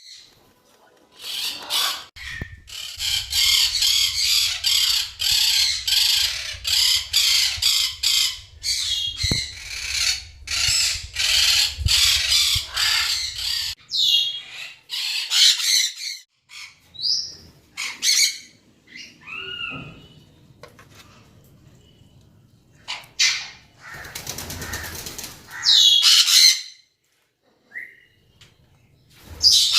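Parrots squawking: a long run of harsh, rapidly repeated screeches, then scattered shorter calls, some gliding up or down in pitch.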